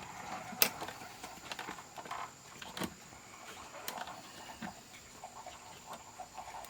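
Small parts of an 8-track player's power supply being handled during reassembly: scattered clicks and light taps, the sharpest about half a second in.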